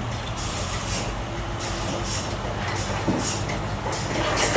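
Sawmill bandsaw machinery running: a steady low motor hum under a high hiss that comes and goes about twice a second.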